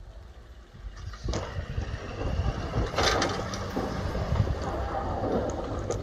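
Snow-clearing vehicle running, with a low engine rumble and a louder burst of noise about three seconds in.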